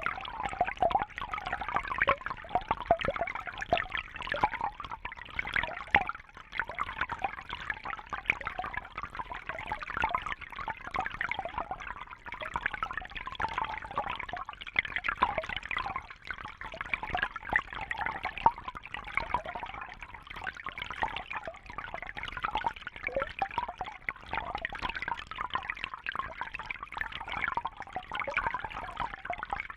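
Fish tank water trickling and bubbling steadily, a dense patter of small splashes.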